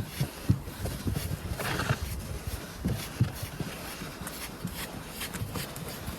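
Footsteps tramping through deep snow, a run of irregular low thuds, with wind rushing on the microphone.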